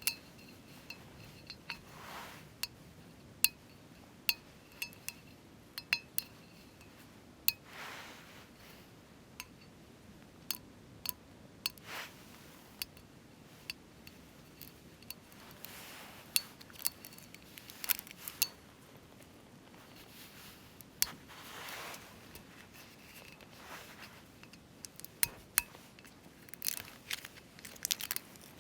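Scattered light clinks and taps of glassware and dishes being handled, a few of them ringing briefly, with occasional softer shuffling sounds in between.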